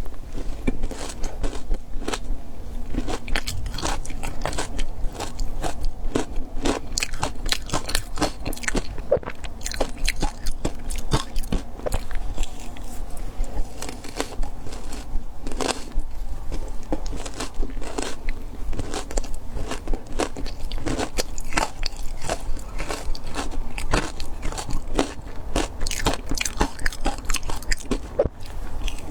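Close-up chewing and crunching of frozen matcha ice: a continuous run of cracks and crunches, several a second without pause.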